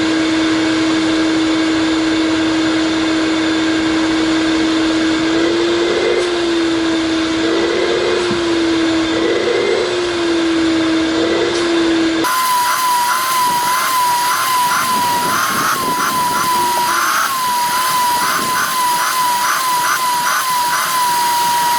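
Shop vac running loud and steady over a car floor mat, its motor whine wavering up in pitch several times. About halfway through, the sound cuts abruptly to a much higher-pitched whine that keeps wavering.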